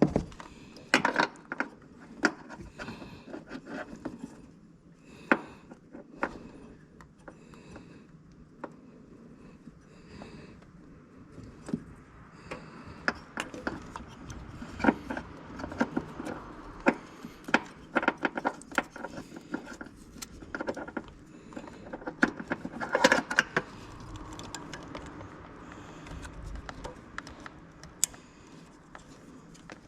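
Hand tools and metal parts being handled during car repair work: irregular clicks, knocks and scrapes, with a denser cluster of clatter about two-thirds of the way through.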